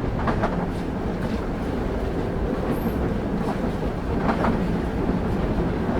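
Passenger train running at speed, heard on board: a steady low rumble of wheels on rail with a few sharp clicks as the wheels pass rail joints, the clearest a pair near the start and another pair a little past the middle.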